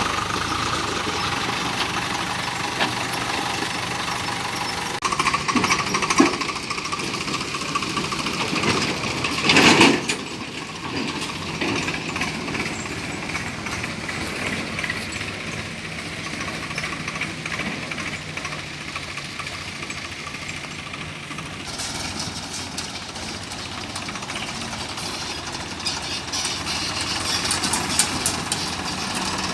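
Tractor engine running steadily, with a louder burst about ten seconds in.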